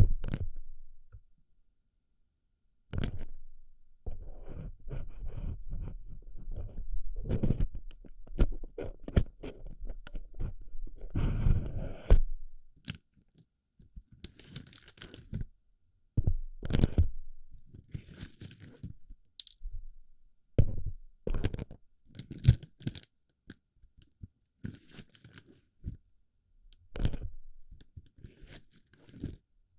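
Close-up ASMR sounds of plastic BB pellets being pressed and rubbed into a microphone's ear: irregular bursts of crunching and rustling with sharp clicks, broken by short pauses.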